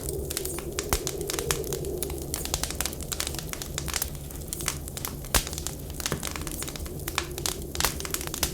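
Wood fire in a firewood stove crackling, with many sharp pops and snaps. Under it run a soft wavering whistle of wind and a steady low rumble.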